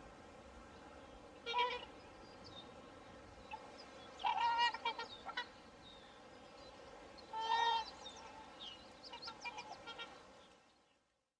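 Swans calling: a short call, then a run of calls about four seconds in and another about seven and a half seconds in, with softer calls after, over faint steady background noise. The sound fades out near the end.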